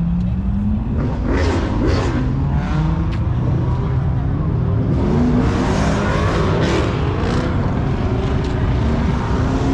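A vehicle engine being revved hard, its pitch climbing several times over a steady loud rumble.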